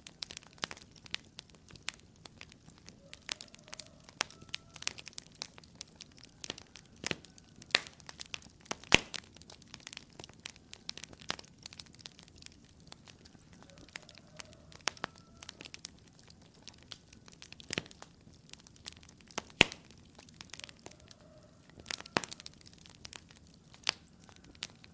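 Wood fire in a fireplace crackling, with irregular sharp pops and a few louder snaps.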